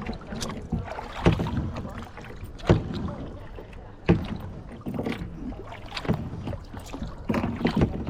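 Kayak paddling: the paddle blades splash into the water in strokes at uneven intervals of about a second or so, over a steady wash of water.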